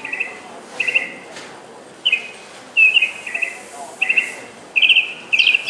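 Bird chirping in short bursts of quick, high notes that repeat about once a second.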